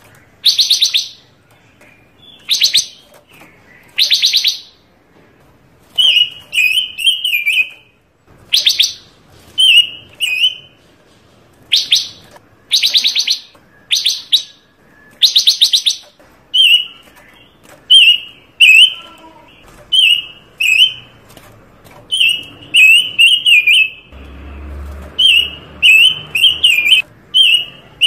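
A songbird sold in Indonesia as 'panca warna' sings steadily. It repeats harsh, buzzy trills about a second long, and later mixes in quick clusters of chirping notes, roughly one phrase a second.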